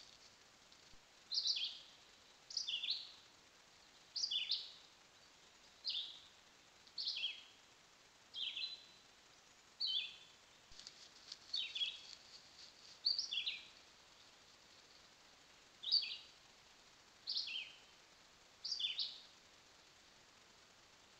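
A bird calling over and over, each call two quick notes sliding downward, repeated about once every one and a half seconds.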